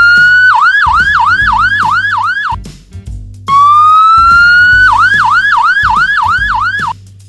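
Fire truck siren: a rising wail that breaks into quick falling yelps, about four a second. The pattern plays twice over light background music.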